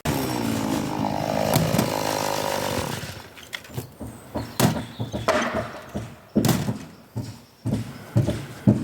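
Angle grinder running for about three seconds on a brick, then winding down. A string of short, sharp knocks follows, about one or two a second.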